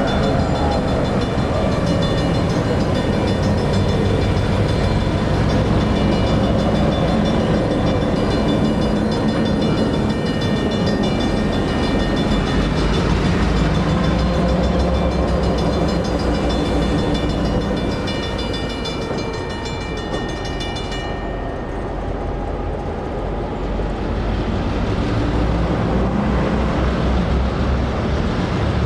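EMD SW1500 switcher locomotive's diesel engine running as the freight train moves over the grade crossing, with the crossing signal bell ringing steadily until it cuts off suddenly about two-thirds of the way through.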